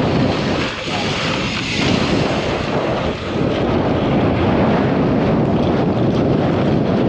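Wind blowing across the microphone, a loud steady rush that dips briefly about three seconds in.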